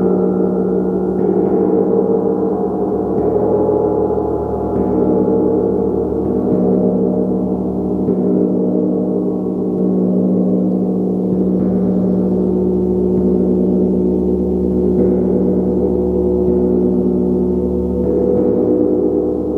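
A gong played continuously with soft, repeated mallet strokes every second or two, building a dense, steady wash of overlapping low and mid tones that sustain without dying away.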